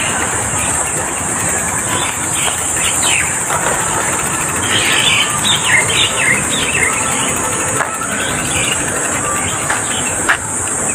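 Birds chirping in short sweeping calls, busiest in the middle, over a steady high-pitched hiss.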